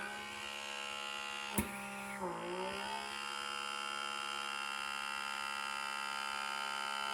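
Handheld electric pore vacuum's small motor running with a steady whine while its tip sucks skin into it. A sharp click comes about a second and a half in, and the pitch dips briefly just after two seconds before settling back.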